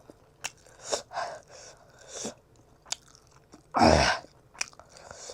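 Close-miked eating sounds: chewing with wet mouth clicks and smacks, and one louder breathy burst about four seconds in.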